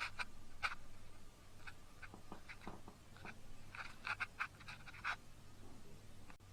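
Faint, scattered small clicks and rustles over a low steady hum.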